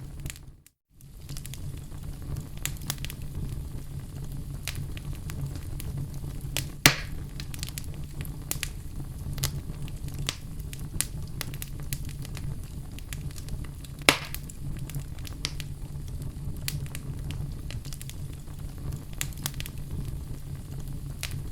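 Crackling fire sound effect: a steady low rumble with frequent small crackles and two louder pops, about 7 and 14 seconds in. The sound cuts out briefly just under a second in.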